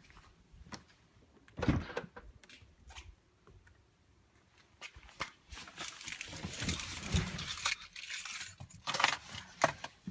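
Keys jangling and clicking while being handled, with a dull thump a little under two seconds in and a longer stretch of jingling in the second half.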